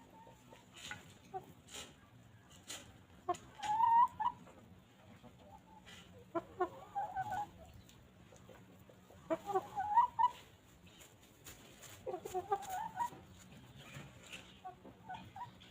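Hens clucking in four short bursts of calls, about three seconds apart, with a few sharp taps in between.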